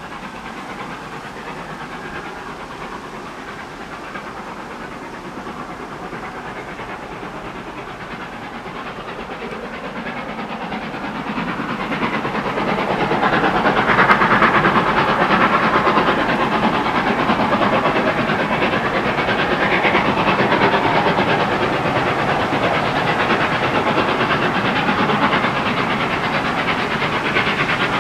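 Steam locomotive working a train, its exhaust and hiss growing louder as it approaches over the first half, then staying loud as it comes close.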